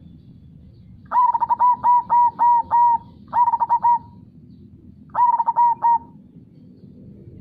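Zebra dove (perkutut) cooing: a run of about six quick coo notes, then two shorter runs of three or four notes, each phrase loud and clear. Beneath it runs a steady low rush of flowing river water.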